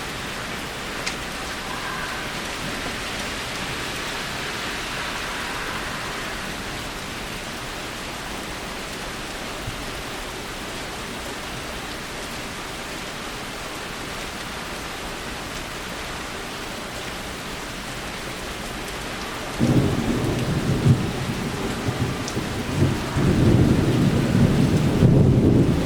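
Steady heavy rain during a storm. About twenty seconds in, a louder, uneven low rumble comes in and continues to the end.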